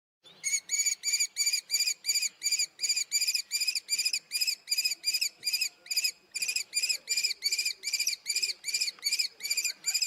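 Common kestrel giving its rapid, repeated kee-kee-kee call: a long run of short, high, sharp notes at about three to four a second, with a brief break about six seconds in.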